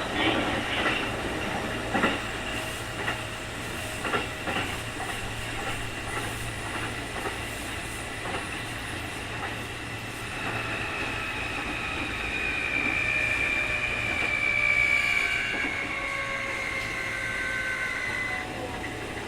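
Keikyu 2000 series electric train running, heard on board. Wheels click over rail joints in the first few seconds. From about halfway a high whine comes in, holds, then falls slightly and cuts off near the end. This whine is the so-called 'jet sound' of this abnormal-noise car.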